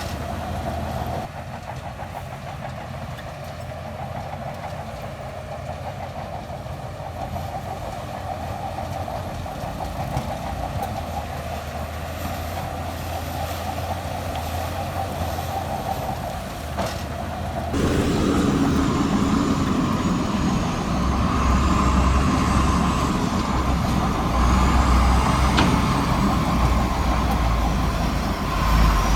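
Heavy diesel earthmoving machinery running steadily. About two-thirds of the way through it gets louder and heavier, as if under more load.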